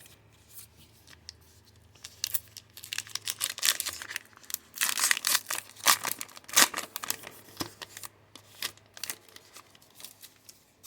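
A trading-card pack wrapper being torn open and crinkled by hand, a fast irregular run of crackles and rustles that is loudest in the middle.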